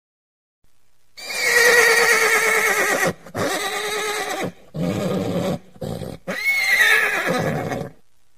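Horse neighing: a long whinny begins about a second in, starting high and sliding down, followed by several shorter, lower calls, then a second high whinny that slides down and stops near the end.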